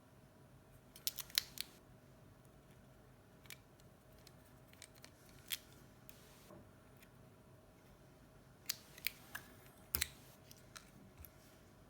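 Small sharp clicks and taps of hand tools and small parts being handled during an iPhone 7 display repair. There are three quick clicks about a second in, single clicks a few seconds apart, and a cluster of clicks near the end, over a faint steady hum.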